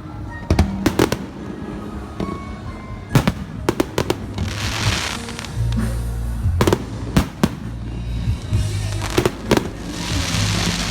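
Fireworks display: about ten sharp bangs of shells bursting at irregular intervals, with two stretches of crackling hiss, one about four seconds in and one near the end. Music with low, steady bass notes plays underneath.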